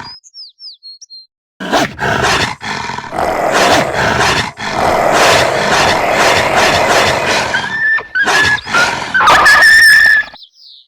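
Dog growling and snarling loudly in long rough stretches broken by short pauses, with a thin high-pitched whine near the end.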